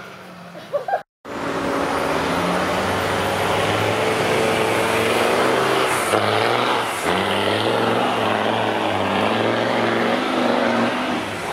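Off-road 4x4's engine running hard under load on a steep dirt climb, its revs rising and falling repeatedly. It comes in about a second in, after a brief drop to silence.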